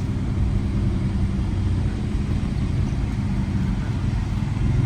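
A car engine running with a steady low exhaust rumble.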